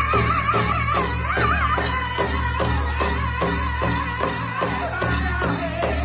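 Powwow drum group: a big drum struck in a steady beat, several strokes a second, under high, wavering voices singing together.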